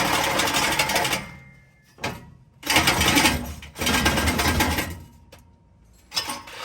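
Cordless reciprocating saw cutting exhaust pipe. It runs in short bursts that stop and start: one ends about a second in, two more of about a second each follow midway, and a couple of brief spurts come near the end, as its battery is running flat.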